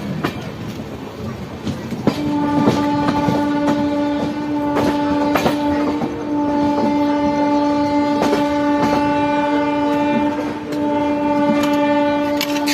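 Express train running through a station at speed, its wheels clattering over the rail joints. About two seconds in, the locomotive's horn starts one long steady blast that holds almost to the end, dipping briefly twice.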